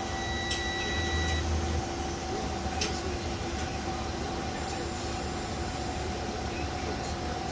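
Heavy truck's diesel engine idling steadily, a low rumble with a constant whine over it, and a few light clicks.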